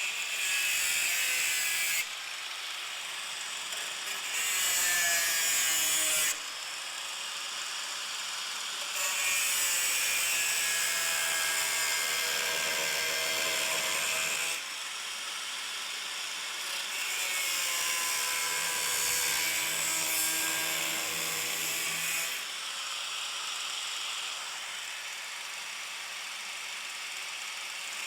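A high-pitched power tool cutting into sheet-metal body panel in four bursts, its whine dipping in pitch as it bites and picking up again. The first two bursts are short, the last two run about five seconds each. The cutting is part of removing rusted metal from a car's rear wheel-arch dogleg.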